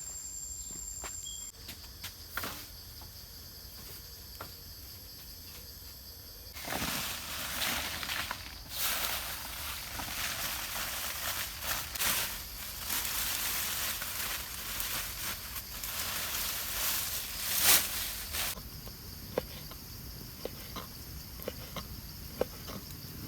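Insects calling steadily in high-pitched bands throughout, joined from about seven seconds in by a long stretch of rustling and crackling noise that stops about eighteen seconds in.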